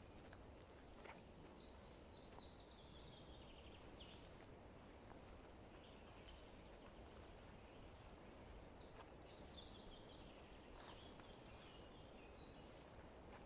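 A songbird singing twice, each song a fast trill of high notes falling in pitch and lasting about three seconds, over a faint steady low rumble.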